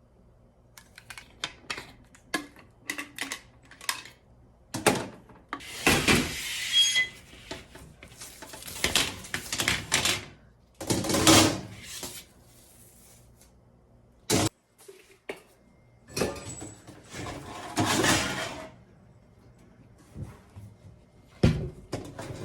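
Handling noise from objects being worked with: scattered clicks and knocks, and several brief bursts of scraping or rubbing.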